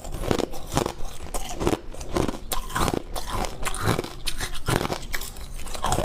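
Close-miked biting and chewing of crunchy ice: an irregular run of sharp crunches, several a second.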